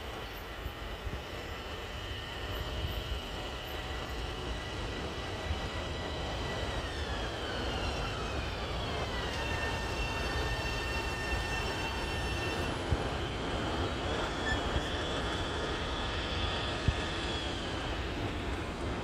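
Long Island Rail Road train running through the station, with a low rumble and a steady high whine. The whine drops in pitch about seven to nine seconds in, then holds, and the overall sound grows slowly louder.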